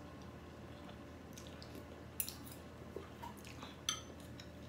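Mouthful of food being chewed close to the microphone, with about four light metallic clinks of a spoon and fork against a plate in the second half, the last one ringing briefly.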